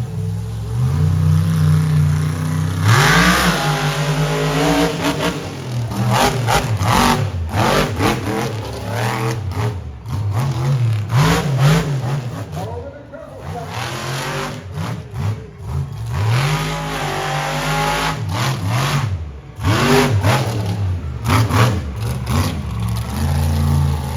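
Monster truck engine running hard, its pitch rising and falling again and again as the throttle is worked, with brief drops in between.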